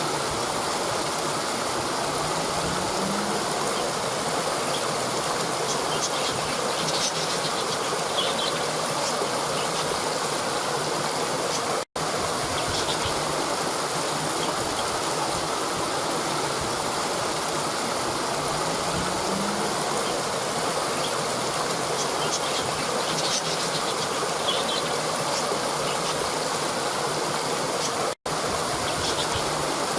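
Waterfall water pouring over rocks: a steady, even rush, with a few faint bird chirps in the background. The sound cuts out for an instant twice.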